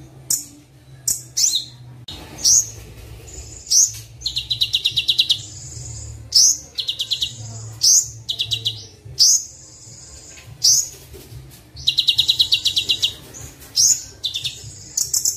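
Recorded songbird song from a Kolibri Wulung (sunbird) tutor track. It has sharp, high upslurred chirps and rapid buzzy trills of about ten notes a second, the trills coming twice, a few seconds in and again past the middle. A steady low hum runs underneath.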